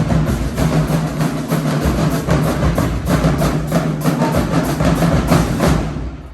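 Marching band playing, its drum line beating a fast, even pulse over sustained low brass. The band cuts off together about six seconds in.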